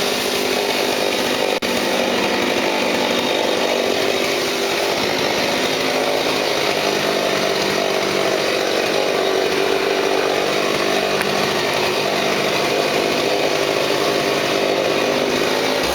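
Chainsaw engine running steadily at speed, with a brief dip about one and a half seconds in.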